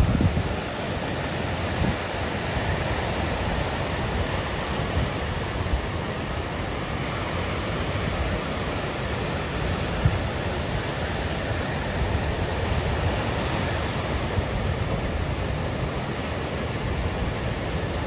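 Ocean surf from a typhoon swell breaking on a reef: a steady, even rush of waves with a faint low rumble.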